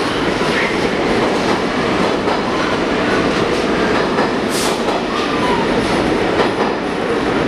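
R46 subway train running along the track, its wheels clattering over rail joints, with faint wheel squeal. A short burst of hiss comes about four and a half seconds in.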